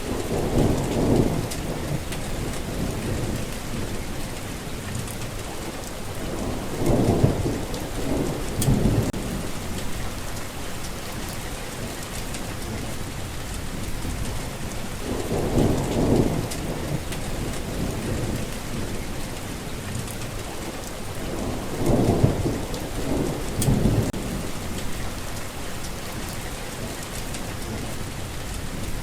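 Steady rain falling, with four low rumbles of thunder several seconds apart, each swelling and fading over a second or two.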